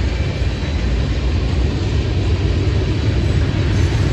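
Freight train of tank cars rolling by with a steady low rumble, growing slightly louder toward the end as a Union Pacific diesel locomotive further back in the train draws near.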